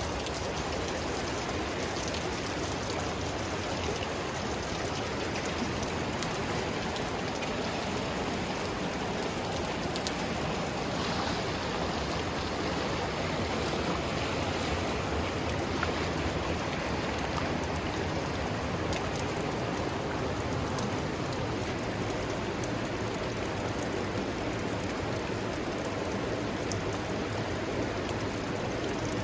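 Creek water rushing over rocks, a steady, even rush with no change throughout.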